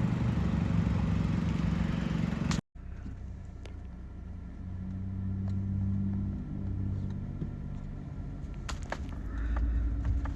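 Vehicle engine running with a low steady hum. It breaks off abruptly a little over two seconds in, comes back quieter, swells and eases, and a few sharp clicks sound near the end.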